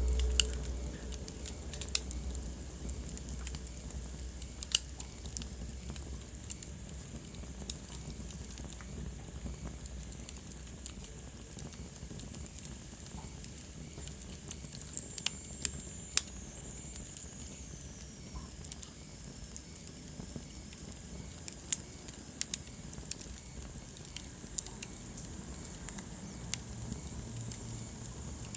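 Wood fire burning in a fireplace, with a steady low rumble and hiss and irregular sharp crackles and pops. About halfway through, a thin hiss slides down in pitch.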